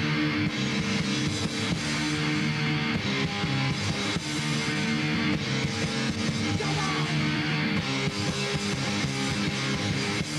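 Punk rock band playing live: an instrumental passage of guitar over drums, with no singing.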